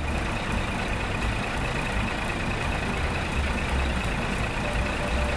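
Heavy truck engine running steadily with a deep rumble, as a vehicle drives off.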